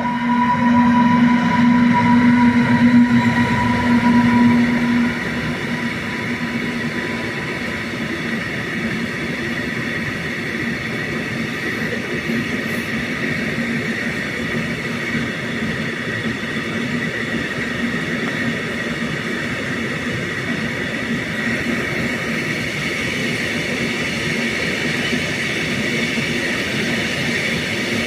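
Freight train passing close by: loud for the first five seconds with a couple of steady tones as the head of the train goes past, then the wagons rolling by with a continuous, even rumble and hiss of wheels on rail.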